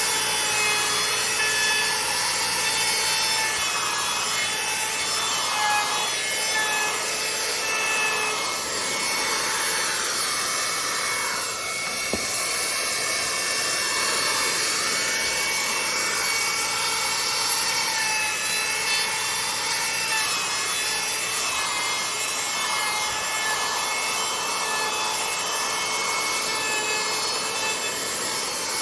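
Router with a roundover bit running and cutting along the sawn edges of a wooden cabinet base, its motor whining steadily. The whine sags in pitch and recovers a few times midway as the bit bites into the wood.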